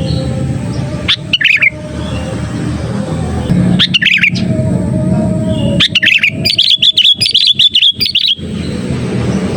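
Sooty-headed bulbul (kutilang) calling: a short burst of chirpy notes about a second in, another around four seconds in, then a longer run of rapid chattering notes lasting over two seconds. A steady low rumble runs underneath.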